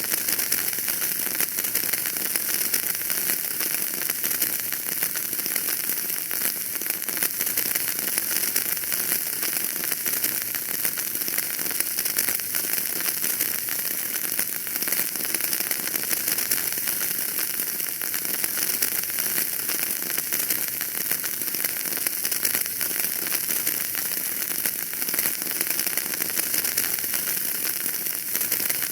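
Wood fire burning in a fireplace: a dense, steady crackle of many small pops over a hiss, with no single loud pops.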